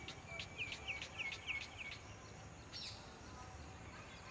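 A bird calling a quick run of short, falling notes for about a second and a half, over faint outdoor background noise.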